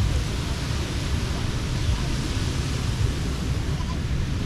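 Beach ambience: a steady wash of surf with wind rumbling on the microphone, and faint voices of people in the background.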